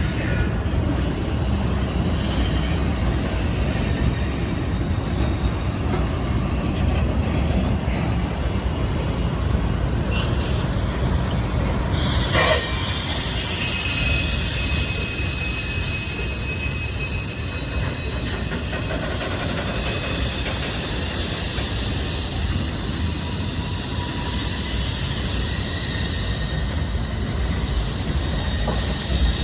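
Freight train cars rolling past in a steady rumble, with wheels squealing in high whining tones. About twelve seconds in there is a brief, louder screech that falls in pitch.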